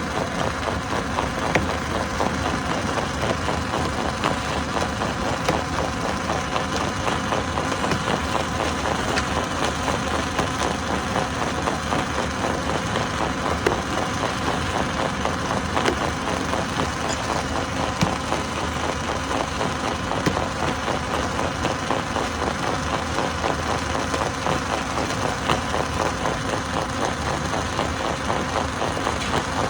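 Stone crusher running steadily, a dense mechanical rumble with a fast even pulsing and a few sharp knocks.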